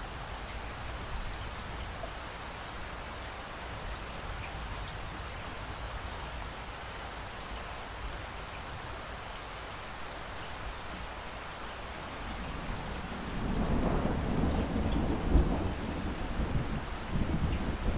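Steady rain falling, an even hiss; about two-thirds of the way through, a low thunder rumble swells in and keeps rolling, with one sharper crack near its height.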